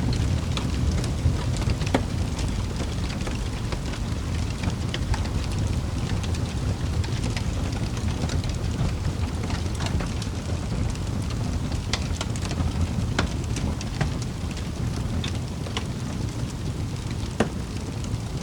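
Wood fire burning in a fireplace: a steady low rumble of flames with sharp crackles and pops scattered throughout.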